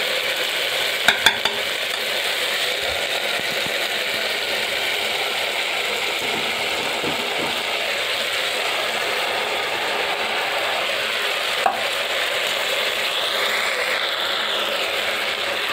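Mixed vegetables sizzling steadily in oil in an aluminium pressure cooker, a constant frying hiss, with a few sharp clicks about a second in and another near the end.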